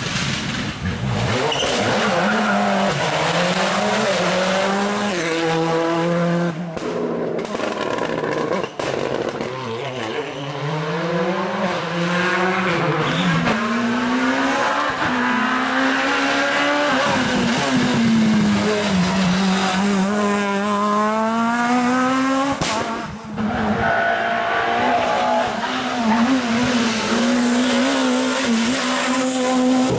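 Rally car engines revving hard on a special stage, the pitch climbing and dropping again and again with gear changes and lifts off the throttle.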